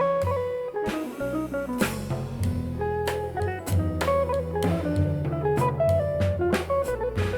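Instrumental jazz-samba trio of electric guitar, electric bass and drum kit: the guitar plays a single-note melody over a walking bass line, with light cymbal and drum strikes.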